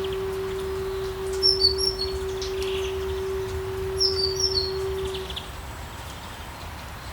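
One long, steady low flute note held for about five seconds before it fades out, with forest birds chirping over it in two short bursts of quick high notes.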